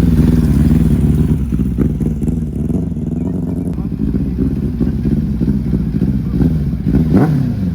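Vehicle engines running at a car meet, with voices in the background; near the end an engine's pitch sweeps up and down.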